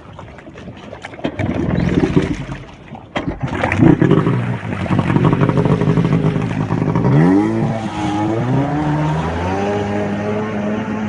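Jet ski engine running, uneven at first, then revving with a rising pitch about seven seconds in and settling into a steady drone.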